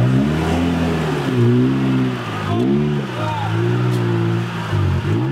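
Suzuki Jimny's engine revving under load as it crawls through mud, its pitch dipping and rising again several times.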